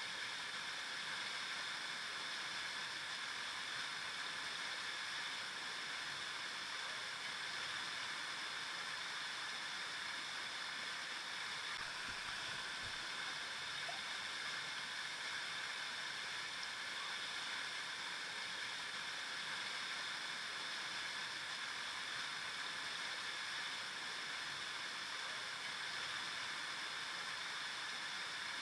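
River water flowing in a steady, even rush, with no pauses or changes.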